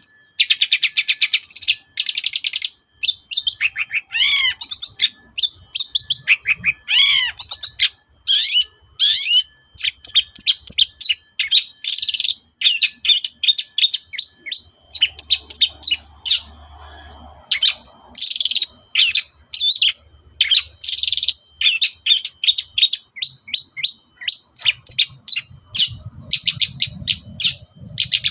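Long-tailed shrike (cendet) singing a loud, fast, varied song of rapid chirps and whistles, the mimicry-filled 'gacor' song keepers prize. A fast trill comes about a second in, and down-slurred whistles come around four and seven seconds, with a brief lull near the middle.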